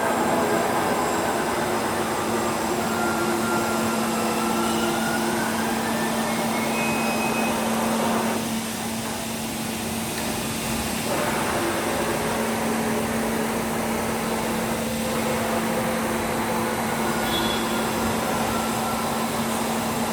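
Machine running with a steady hum and a faint whine that glides up and down in pitch; the sound drops a little from about eight to eleven seconds in.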